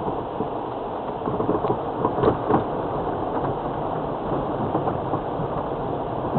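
Land Rover Freelander TD4 diesel 4x4 driving slowly along a wet, flooded lane: steady engine and tyre noise mixed with rain and running water, with a few knocks about two seconds in.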